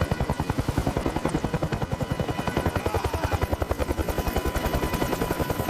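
Helicopter rotor chopping in a fast, even beat of pulses that keeps up steadily throughout.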